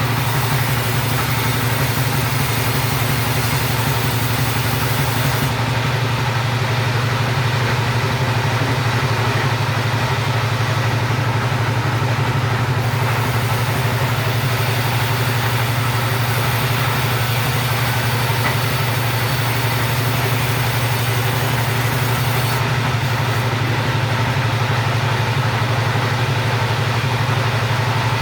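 Chainsaw engine running steadily at an even, unchanging speed while sawing timber into rafter stock.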